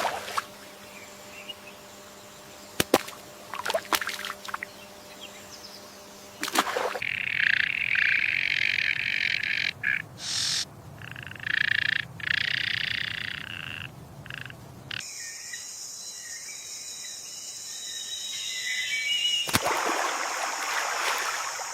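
Spliced stretches of wetland nature ambience. A sparse quiet stretch with a few clicks gives way about a third of the way in to a dense, even chorus of calling animals that cuts in and out abruptly. Past the middle, a steady high-pitched drone takes over, with scattered bird chirps.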